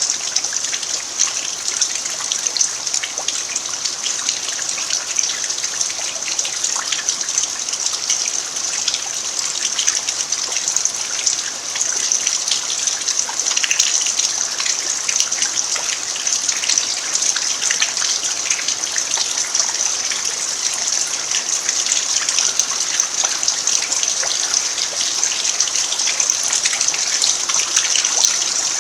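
Steady rain falling on a dirt yard: a dense, even patter of drops that holds the same level throughout.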